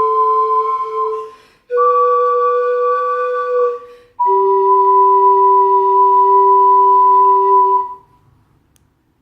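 Pan flute and ocarina playing a slow duet in two-part harmony, ending the piece. Two short phrases lead into a long final held note about four seconds in, which stops about eight seconds in.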